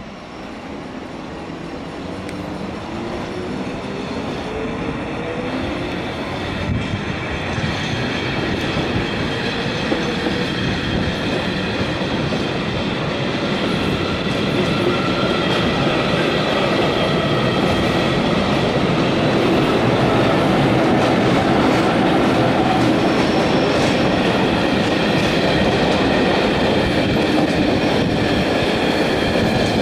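Berner Oberland-Bahn metre-gauge electric train running through a station on curved track, growing steadily louder as it comes closer, then holding. A whine rises in pitch over the first several seconds, and steady high squealing tones sound over the rolling wheel noise.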